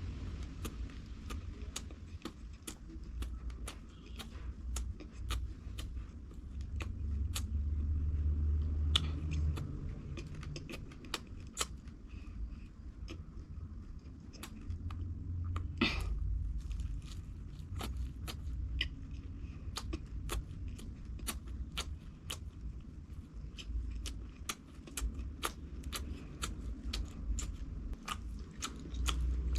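Close-miked eating: a person chewing food, with sharp mouth clicks or smacks about twice a second over a low rumble.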